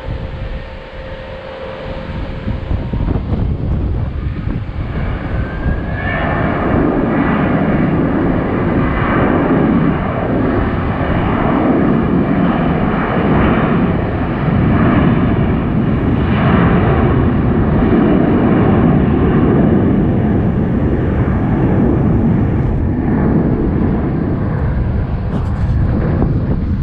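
Jet airliner engines running loud at high power: the sound builds over the first several seconds, a rising whine climbs at about six seconds, and then a heavy, steady rumble holds.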